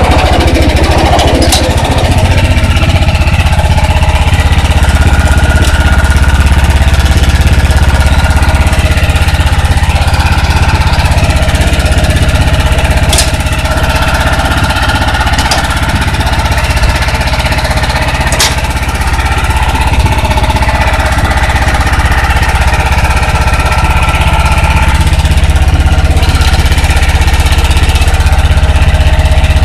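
Kawabe snowblower's Mitsubishi engine running steadily, with a few sharp clicks here and there.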